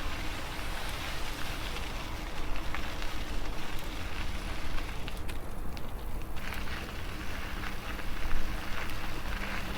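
Wind buffeting a foam-covered lapel microphone while riding an e-bike into a headwind, a steady rumbling hiss with crackling riding noise over it.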